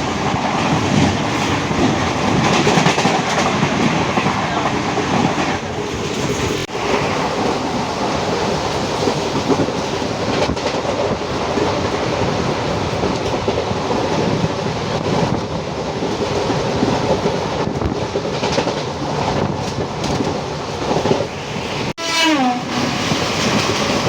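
Passenger train running at speed, heard from on board: a steady rumble of the coach with the clickety-clack of wheels over rail joints. Near the end, after a brief break, a single tone falls steeply in pitch.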